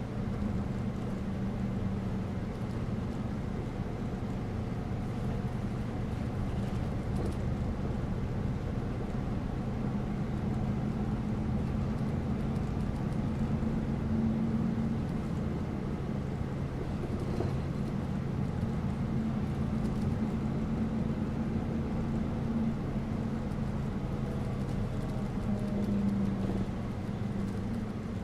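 City bus in motion, heard from inside the cabin: a steady low engine hum that swells and eases a little as it drives, over continuous road noise, with a few faint rattles.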